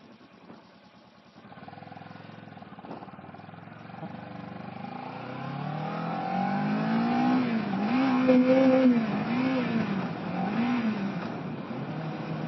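Kawasaki ER-6f's parallel-twin engine running, at first a low steady hum, then louder and climbing in pitch as the bike accelerates, its note rising and falling several times with throttle and gear changes.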